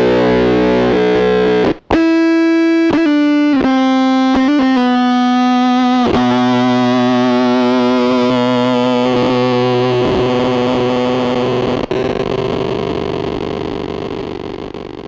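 Electric guitar played through the AC Noises URLA square-wave fuzz pedal, heavily distorted. After a brief stop about two seconds in, a few short notes change pitch, then one long note is held and fades out near the end.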